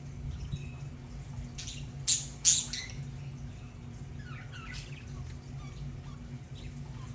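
Budgerigars calling: two sharp, loud squawks about two seconds in, then quieter warbling chirps and scattered small calls, over a steady low hum.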